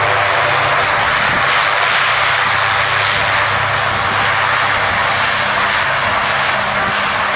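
Lockheed C-130J Hercules' Rolls-Royce AE2100D3 turboprops with six-bladed propellers, running at a steady loud roar with a low, even hum underneath.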